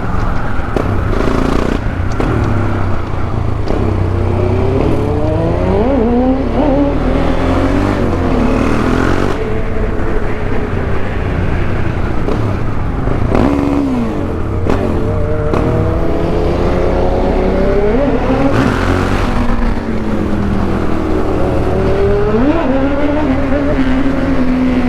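KTM 690 Duke R's single-cylinder engine under way, revving up through the gears several times with its pitch climbing and then dropping at each shift and as the throttle is rolled off, over a steady rush of wind.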